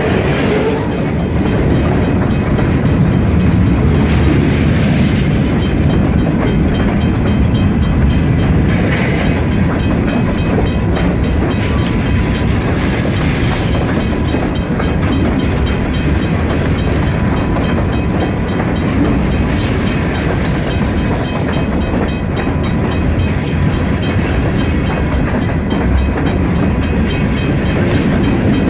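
Long freight train's cars rolling past, a steady, loud rumble of steel wheels on rail.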